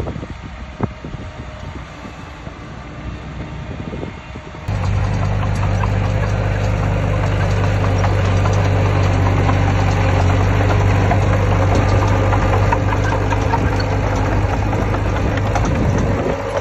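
Diesel engine of heavy earthmoving machinery running. It is quieter with a few sharp knocks at first, then about five seconds in it cuts abruptly to a louder, steady engine run with a deep hum and metallic clatter.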